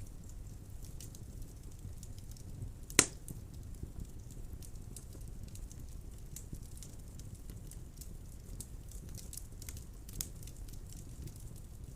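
Wood fire burning in a fireplace: a steady low rumble of flames with scattered small crackles, and one loud sharp pop about three seconds in.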